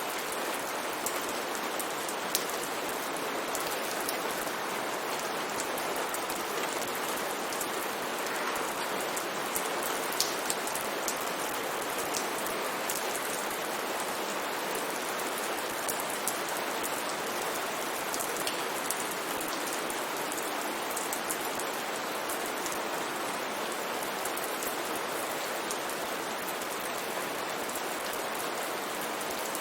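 Steady rain falling: an even hiss of rain with scattered sharp ticks of individual drops.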